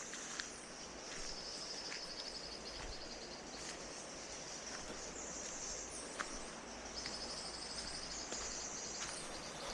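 Forest insects trilling: high, fast-pulsed trills that come and go in several stretches of a second or two, over a steady background hiss, with a few faint ticks.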